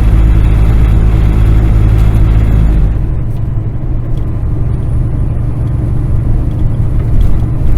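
Kenworth semi truck's diesel engine running while driving, heard from inside the cab as a steady low drone. About three seconds in, the drone drops lower and turns rougher and slightly quieter.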